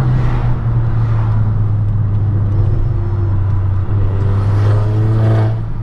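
Skoda Yeti 1.8 turbo four-cylinder petrol engine and road noise heard inside the cabin as a steady low drone while the car slows down.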